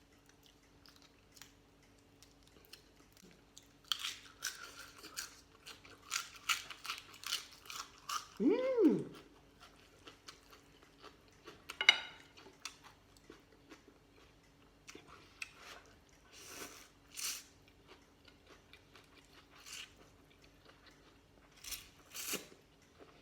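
Close-up chewing and crunching of mouthfuls of pork noodle soup, in clusters with pauses between, busiest about four to nine seconds in. A short voiced hum of enjoyment rises and falls about eight seconds in.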